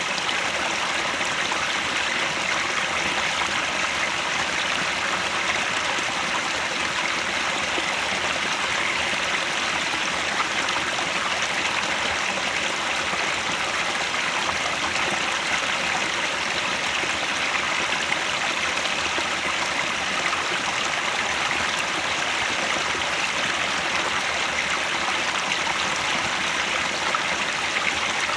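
A mountain headwater stream flowing steadily over rocks: an even rushing and trickling of water.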